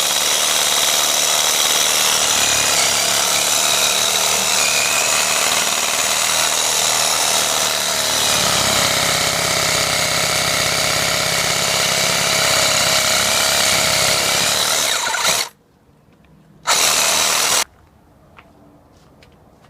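Cordless Ryobi reciprocating saw with a pruning blade cutting through a starfruit tree branch. It runs steadily for about fifteen seconds and then stops. A short second run of about a second follows.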